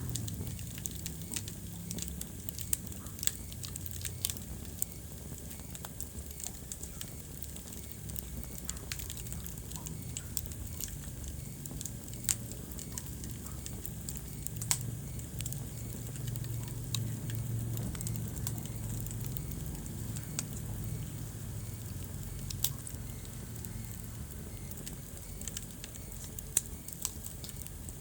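Wood fire burning in a fireplace: scattered sharp crackles and pops, a few of them louder, over a steady low rumble of the flames.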